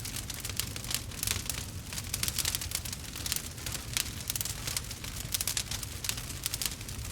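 Wood fire crackling and popping: many quick, irregular snaps over a steady low rumble of burning.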